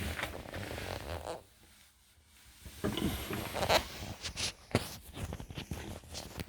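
Rustling, then after a short quiet gap, scattered light clicks and knocks.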